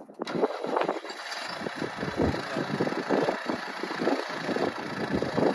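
A vehicle engine running unevenly.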